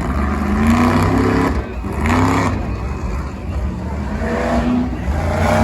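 Monster truck engine running loud and revving, its pitch rising and falling several times over a steady low rumble.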